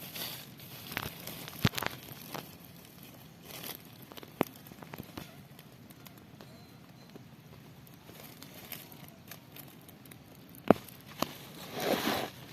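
Sparse rustling and crackling with scattered sharp clicks and snaps, and a louder burst of rustling near the end.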